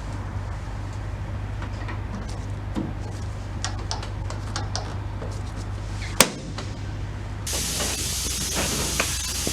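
Small clicks and taps of handling over a steady low hum, with one sharp click about six seconds in. About seven and a half seconds in, a steady spray hiss of air starts abruptly.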